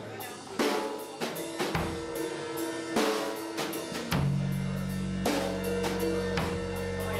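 A band playing, led by a drum kit with kick and snare hits at a steady rhythm; sustained low bass notes join about four seconds in.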